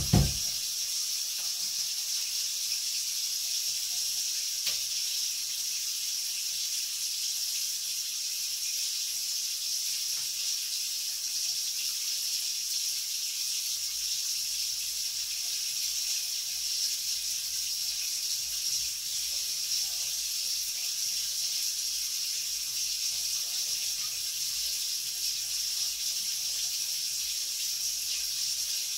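Food sizzling in a pan on the stove: a steady, even, high hiss that holds throughout, with a loud knock right at the start.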